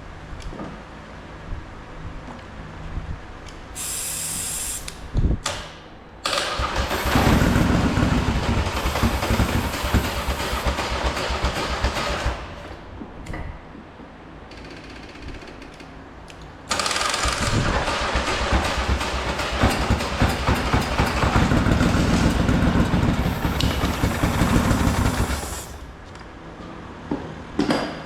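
Two rounds of aerosol starting fluid sprayed in short hisses, each followed by a long bout of the Polaris Sportsman 850's engine cranking over on the electric starter. The first bout lasts about six seconds and the second about nine. The quad has sat for years, and the engine is being tried on starting fluid to see whether it will fire.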